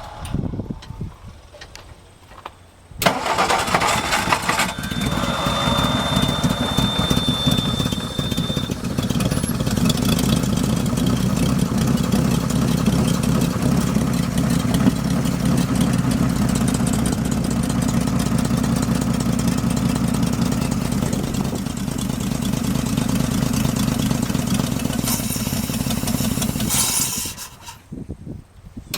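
1962 Ford F-350 farm truck engine, long out of use, catching about three seconds in on gasoline poured into the carburetor. It runs steadily for over twenty seconds, then dies near the end as the primed fuel runs out.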